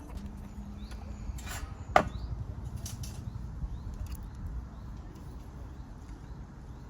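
A single sharp knock about two seconds in, with a couple of weaker knocks around it, over a steady low outdoor rumble and faint high chirps.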